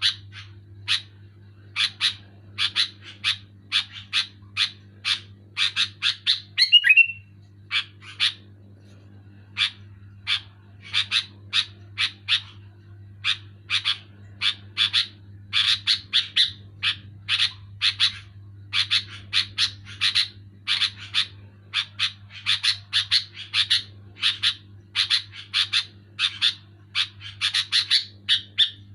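Sooty-headed bulbul (kutilang) calling in rapid runs of short, sharp chattering notes, several a second. A louder outburst ending in a falling note comes about a quarter of the way in, followed by a pause of about two seconds, and the chatter then resumes. A steady low hum runs underneath.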